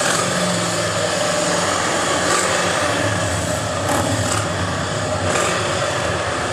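Vehicle engines running steadily: a low rumble under a constant hiss of outdoor noise.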